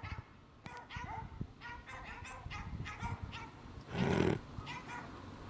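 Puppies whimpering and yipping in many short, repeated calls, with a louder, noisier sound about four seconds in.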